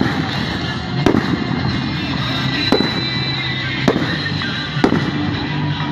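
Fireworks aerial shells bursting overhead: about five sharp bangs roughly a second apart, over a continuous din.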